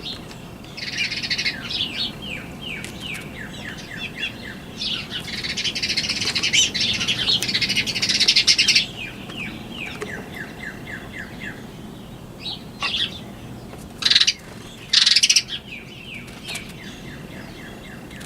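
Small birds chirping and calling: quick runs of short falling chirps, a dense stretch of chatter about five to nine seconds in, and two loud short bursts near the end.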